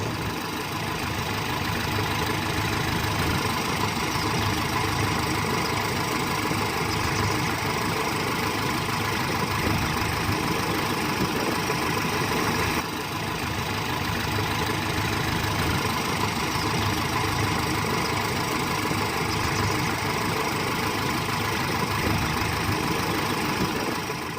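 A truck engine runs steadily at idle, with a small dip in level about halfway through.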